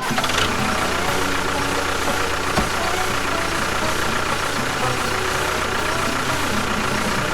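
A motor running steadily at a constant speed, with a faint steady whine above the running noise.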